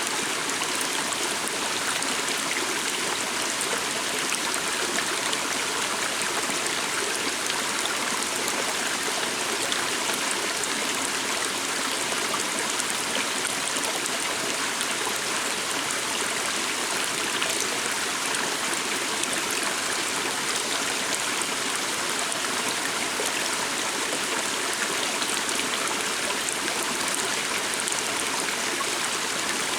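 A small stream flowing steadily, a constant rush of babbling water.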